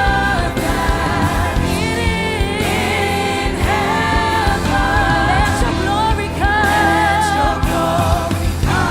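Live gospel worship music: voices hold long notes with vibrato over a steady band accompaniment.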